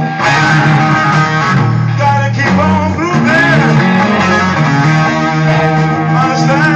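Guitar music: lead guitar notes bending up and down over sustained low bass notes.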